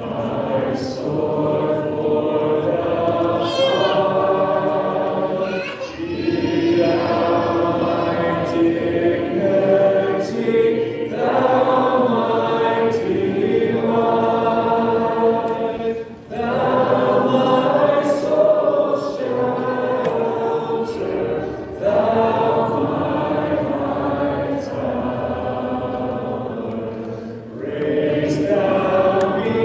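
Congregation singing a hymn unaccompanied, in phrases with brief breaks between lines.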